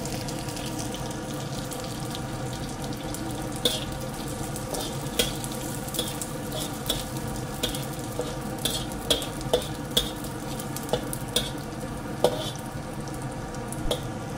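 Sliced garlic sizzling in hot oil in a wok, stirred with a metal spatula that scrapes and taps against the wok in a dozen or so sharp clicks, over a steady hum.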